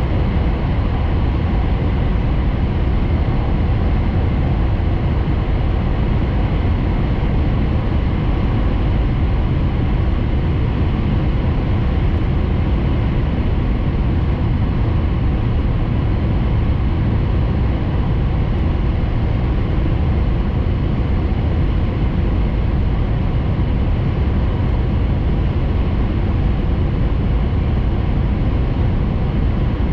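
Hayabusa Shinkansen train running at speed, heard from inside the passenger cabin as a steady, unbroken low rumble and rush.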